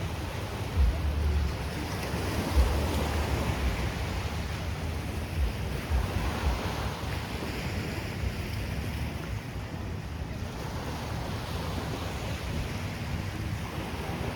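Surf washing in and out along the shore, a steady hiss of breaking waves, with a few gusts of wind rumbling on the microphone early on.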